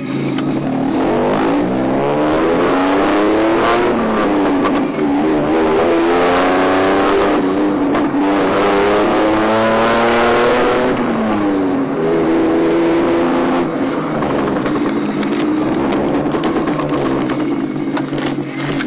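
Daihatsu Mira L500V's small 660 cc engine breathing through an aftermarket GIGA ST straight-pipe muffler while driving. The revs climb in pitch and drop back several times as the car accelerates through the gears, with one longer fall in pitch around the middle.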